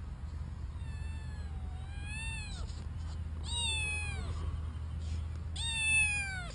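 A domestic cat meowing three times in long, drawn-out calls, each bending up and then falling in pitch; the last is the loudest. A steady low hum runs underneath.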